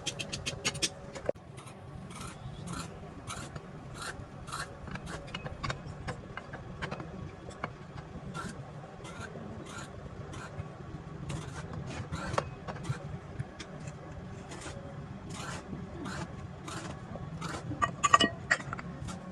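Repeated scraping strokes, about two a second, over a low steady hum, with a louder cluster of strokes near the end.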